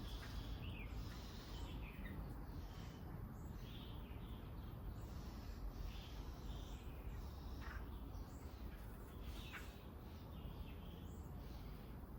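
Small birds giving scattered short chirps, some sliding down in pitch, over a steady low background rumble.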